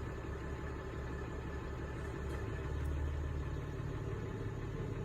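A steady, low engine rumble, like a vehicle's engine running, swelling slightly about halfway through.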